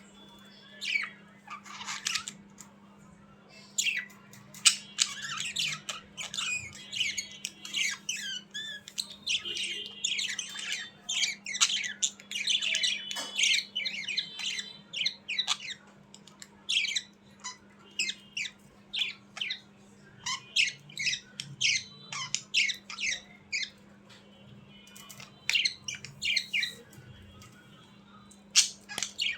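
Budgerigars chattering: fast runs of short, sharp squawks and chirps, thickest in the first half, with a lull a little after the middle before the calls pick up again.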